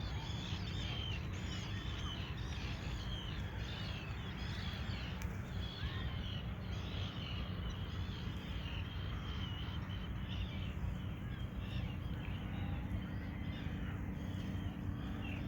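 Many birds calling at once: short, high, chirping calls overlap without pause over a steady low background noise.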